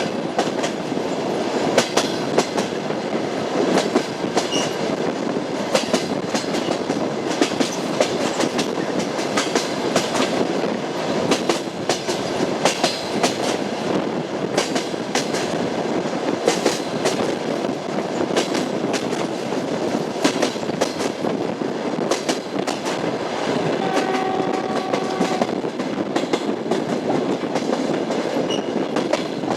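Train wheels rolling along the track, a steady rumble with frequent clicks over the rail joints. About four-fifths of the way through, a short steady tone sounds for about a second and a half.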